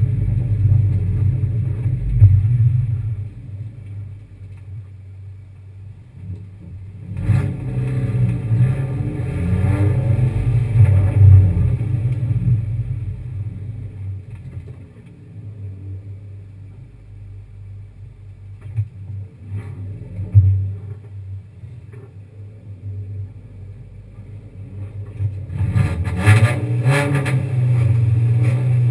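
Kia Picanto race car's engine running and revving: it climbs through the revs a quarter of the way in, falls back to a lower, quieter run, then climbs again near the end and holds steady. A few short sharp thumps come in between, the loudest about two-thirds of the way through.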